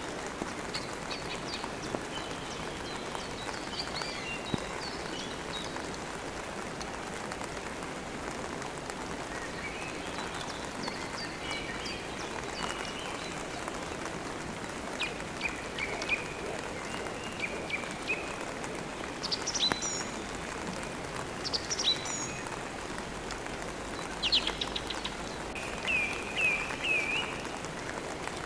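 Steady rain with small birds chirping and trilling over it, the calls coming more often and louder in the second half.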